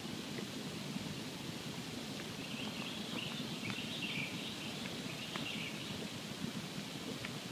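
Campfire burning with a steady low rush and scattered small crackles and pops; a higher, wavering sound runs for about three seconds in the middle.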